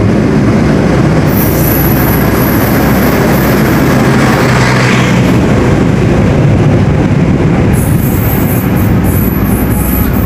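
Electric commuter train running past on the rails with a steady rumble. High wheel squeals come in about a second in and again near the end.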